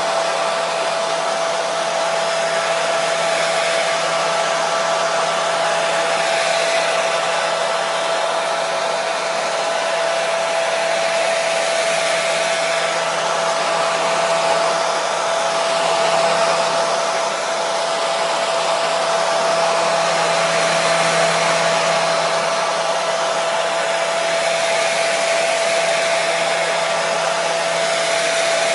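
Hair dryer running steadily on a constant setting, a continuous rushing airflow with a steady whine in it, used as white noise to calm a colicky baby.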